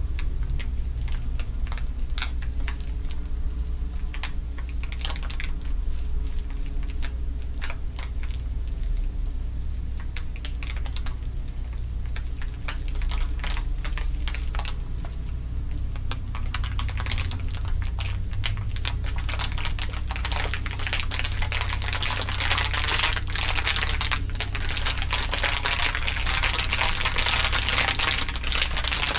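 Layered ASMR crinkling: irregular crisp crackles, sparse at first and growing denser and louder from about halfway, over a steady low hum.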